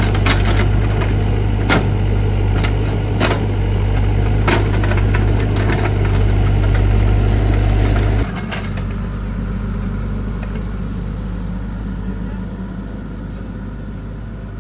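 Excavator's diesel engine running hard, with scattered sharp clanks and knocks, then dropping suddenly to a quieter, steady run about eight seconds in as the work winds down.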